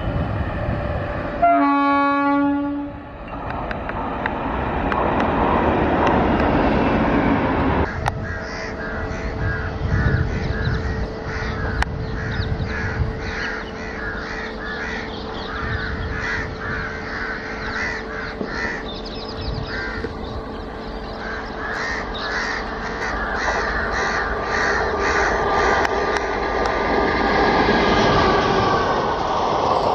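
A train horn sounds once for about a second near the start, beside a passing train. Crows then caw again and again over a steady rumble as an electric-hauled express train approaches. Its coaches roll past near the end, getting louder.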